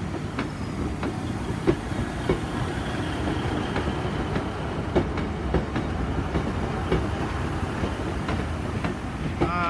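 A Class 150 Sprinter diesel multiple unit with a Class 142 Pacer on the rear running out of the station. The engines give a steady low rumble, and the wheels click repeatedly over the rail joints.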